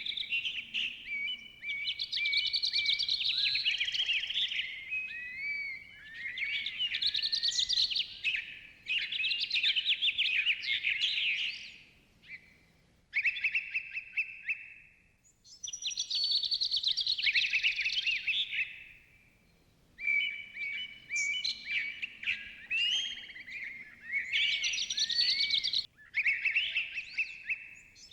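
Birds singing in a forest, long warbling phrases a few seconds each, with short pauses between them and a brief lull around the middle.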